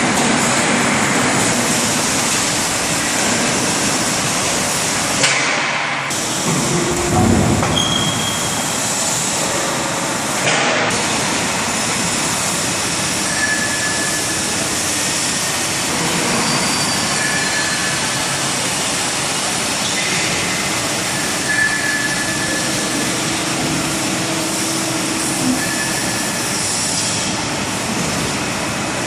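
Industrial machinery running with a steady, loud noise, typical of a hydraulic CNC press brake and its workshop. It drops out briefly twice early on, with a short low swell between, and faint short high squeals come and go later.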